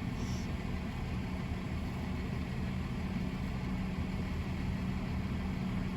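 Car engine idling steadily, a constant low hum with a steady low tone.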